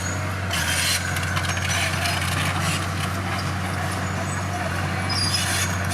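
Heavy diesel engine of earthmoving machinery running steadily, with two spells of hissing, about half a second in and again near the end.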